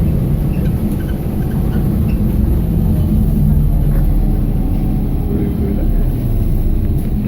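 BKM-321 trolleybus under way, heard from inside the cabin: a steady low rumble of the drive and the road.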